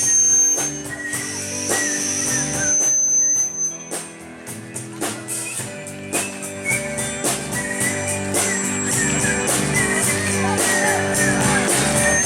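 Live rock band playing an instrumental passage with electric guitar, bass and drums; the drum beat picks up about four seconds in.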